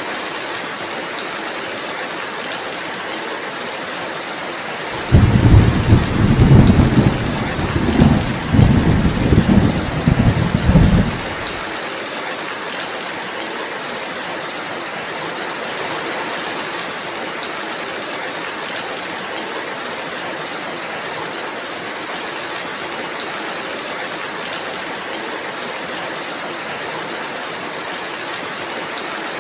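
Steady rain falling, with a thunderclap that breaks in suddenly about five seconds in and rumbles in several peaks for about six seconds before dying away.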